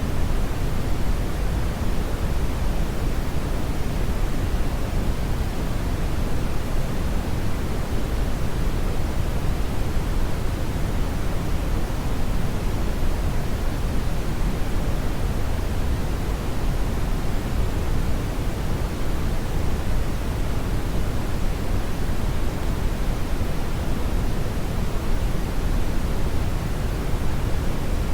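Steady brown noise: a deep, even rushing hiss, heaviest in the low end and thinning out toward the highs, with no changes.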